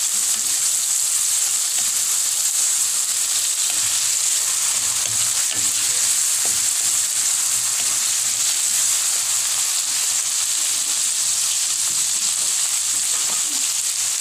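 Chopped garlic, onion and tomato sizzling in hot cooking oil in a pan, a steady hiss, with occasional stirring by a wooden spatula.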